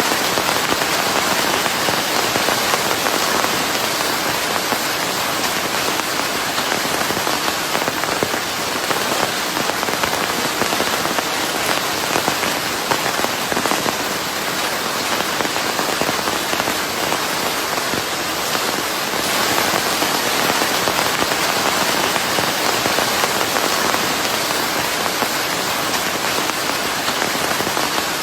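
Steady heavy rain falling on a surface, a dense even patter blended with white noise.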